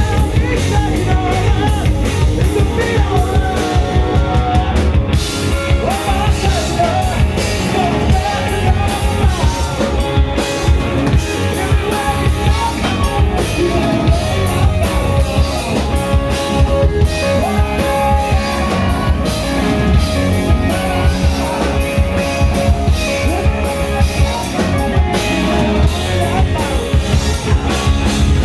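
Rock band playing live, with a drum kit, guitars and a singer's voice.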